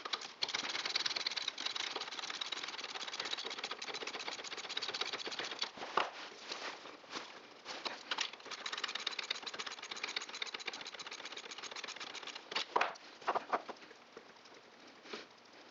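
Ratchet wrench clicking rapidly while backing out the 10mm bolts that hold an EGR valve on, with a few louder knocks of the tool against metal.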